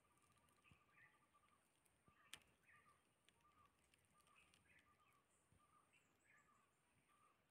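Faint woodland ambience: small bird calls of short chirps, about two a second, over a thin steady high tone, with one sharp click about two seconds in.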